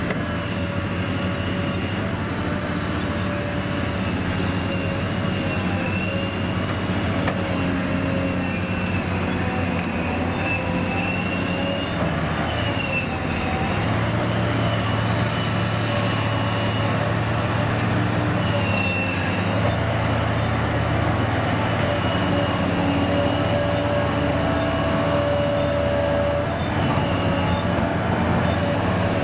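Heavy vehicle engine running steadily, its pitch wavering a little a few times, growing slightly louder about halfway through.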